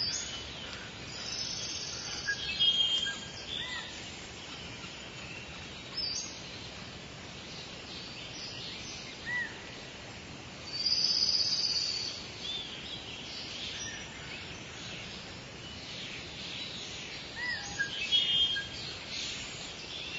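Birds calling on and off: short chirps and whistles, with a longer, louder call about eleven seconds in, over a steady outdoor background hiss.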